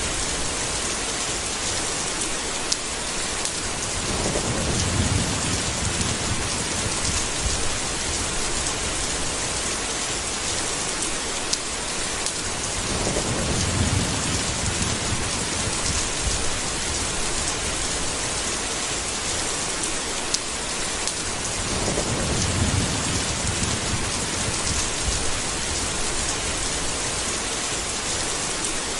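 Steady rain falling, with a low roll of thunder three times, about nine seconds apart, and scattered drips ticking through it.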